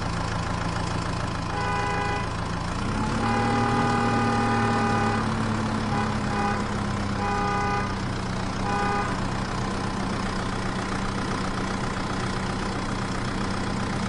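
Engine-idling sound effect with a vehicle horn tooting about five times, the longest honk lasting about two seconds from about three seconds in. The engine note steps up slightly as that long honk starts.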